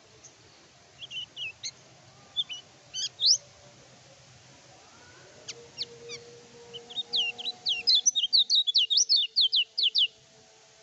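Kecial kuning (white-eye) singing: a few scattered short chirps, then about three seconds of quick, loud, sweeping notes, roughly four or five a second, near the end.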